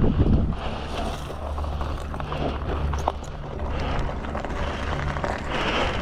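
Wind rumbling on the microphone, with a person breathing hard about every second and a half, out of breath from exertion.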